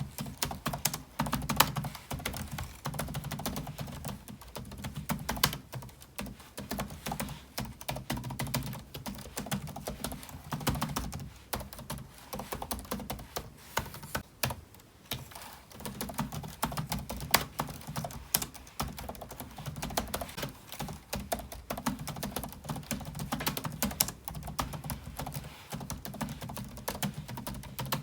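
Typing on a computer keyboard: a continuous run of fast, irregular keystroke clicks, with a short lull about halfway through.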